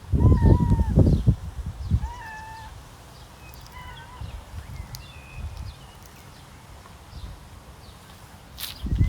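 A cat meowing three times in the first half, each meow a short, fairly level call, with a loud low rumbling noise under the first one. Faint high chirps, like small birds, run in the background.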